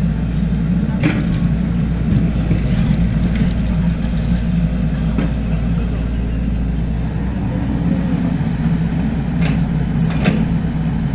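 Hydraulic excavator's diesel engine running steadily, with a few sharp metallic knocks, one about a second in and two near the end.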